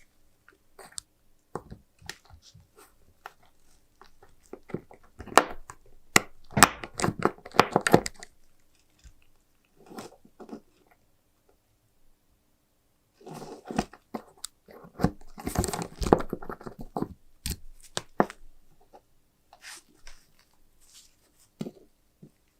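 Hand restoration work on a small metal lighter: scattered clicks and knocks, with two spells of rough, scratchy rubbing of a few seconds each.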